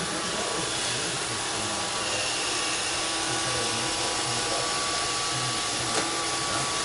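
Roomba 531 robot vacuum running with a steady whir from its motor and brushes, and a single sharp click about six seconds in.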